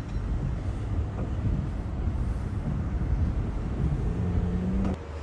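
Low rumble of a vehicle driving fast, with wind noise. Near the end a steady hum rises, then the sound cuts off abruptly.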